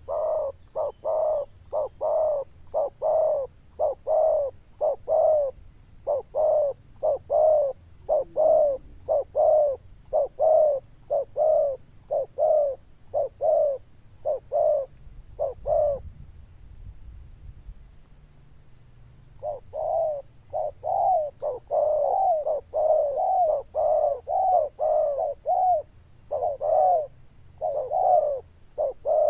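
Male spotted dove (cu gáy) giving its loud cooing display call, a fast series of coos about two a second. The coos break off for about three seconds past the middle, then start again.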